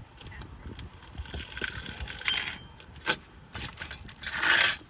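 Hand tools handled against metal: a ringing metallic clink about halfway through, a sharp click a moment later, and a short scrape near the end, as a wrench is worked on the oil drain bolt.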